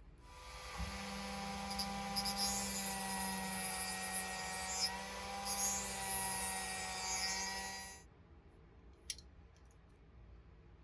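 Small electric power tool running steadily with a high whine and grinding hiss, stopping abruptly about eight seconds in, followed by a couple of faint clicks.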